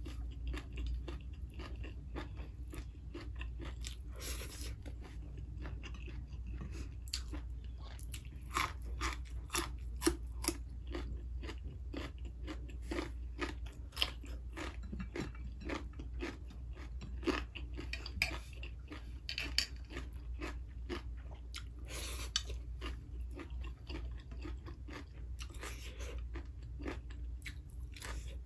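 A person chewing and crunching food close to the microphone: an irregular run of crunches and wet mouth clicks, a few louder ones around ten seconds in.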